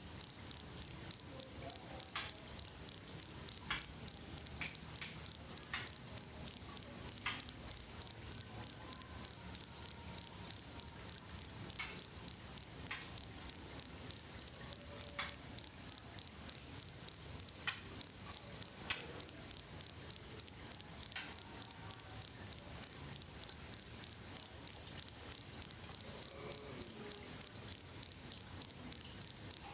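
Cricket chirping in an even, unbroken rhythm of about three to four high-pitched chirps a second.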